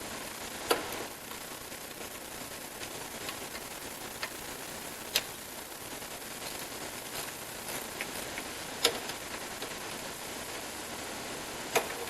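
Hand tools clicking and knocking against the engine during water pump removal: five sharp clicks, a few seconds apart, over a steady hiss.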